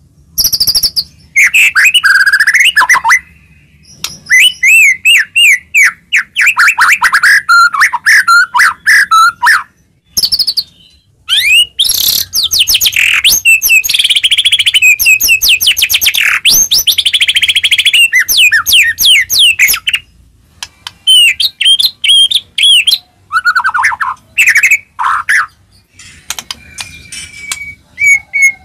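White-rumped shama (murai batu) in full song: loud, fast phrases of whistles, sweeping notes, trills and rapid repeated notes, broken by short pauses every few seconds. This is the kind of song played as a lure to set other shamas singing.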